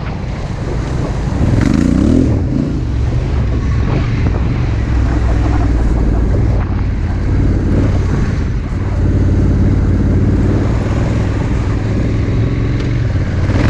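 Adventure motorcycle engine running under load, rising in pitch as it accelerates about two seconds in, then holding a steady drone over road and wind noise. It revs up again near the end.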